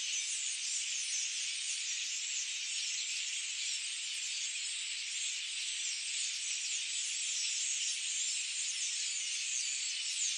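A dense, unbroken chorus of many birds chirping at once, high-pitched, with countless short overlapping chirps and no low sounds.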